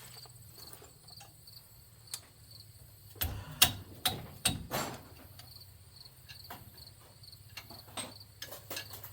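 Dead-blow hammers knocking and clattering in a quick run of sharp knocks about three seconds in, with a few lighter knocks near the end. Crickets chirp steadily in the background.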